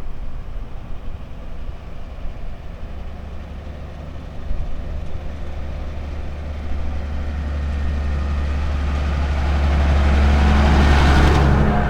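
A vehicle engine running with a steady low hum, growing louder over the second half as it comes closer.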